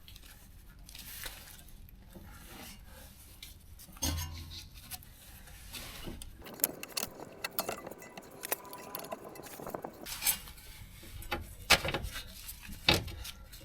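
Metal hand tools clinking, rubbing and scraping against metal parts, with a dull thump about four seconds in and a few sharp metallic knocks near the end.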